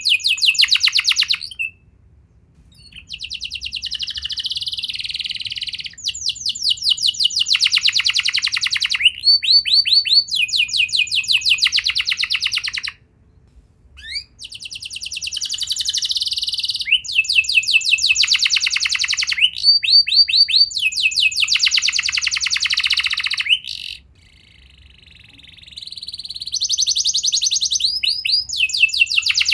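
Domestic canary singing long phrases of fast rolling trills, many rapid notes in a run, with short breaks in the song about two, thirteen and twenty-four seconds in.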